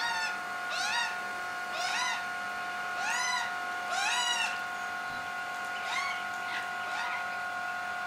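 A bird calling: a short whining call that rises and falls in pitch, repeated seven times at about one a second, with a pause of nearly two seconds in the middle.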